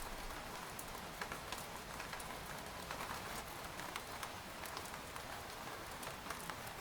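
Steady rain pattering on tent fabric, a dense even hiss with many scattered individual drop taps.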